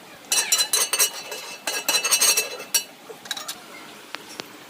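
Metal dishes and utensils clinking and clattering against each other in two busy rattling bursts, then a few lighter knocks and two single ticks near the end.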